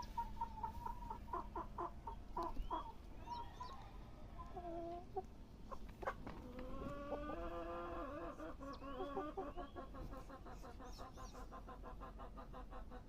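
Poultry clucking: quick runs of short clucks alternating with a few longer, drawn-out calls.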